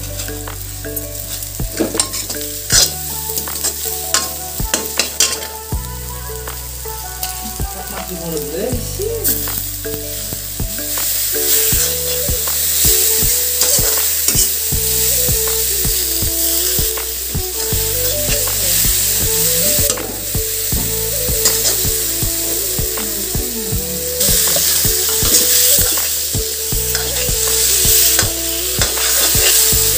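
Onions and spices sizzling as they fry in a steel kadai, stirred with a steel ladle that scrapes and knocks against the pan; the sizzle grows louder about twelve seconds in and again near the end. Soft background music with slow chord changes runs underneath.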